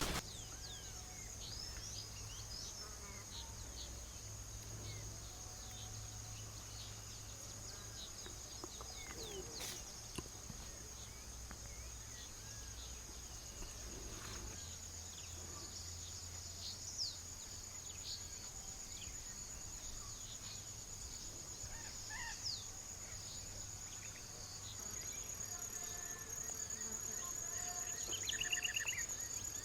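Forest ambience: a steady high-pitched insect drone, with scattered short bird chirps and whistles over it and a quick bird trill near the end.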